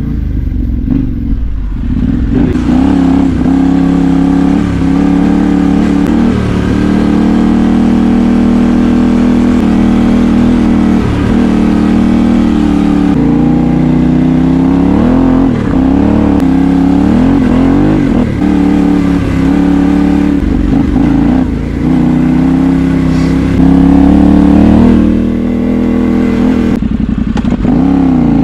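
Yamaha Ténéré 700's parallel-twin engine under way, its pitch dipping and climbing again and again with throttle and gear changes, a little louder for a moment near the end.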